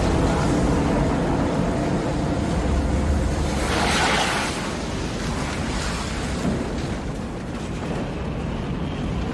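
Strong tornado-force wind: a steady low rumble with a gust that swells into a hissing rush about four seconds in, then eases a little.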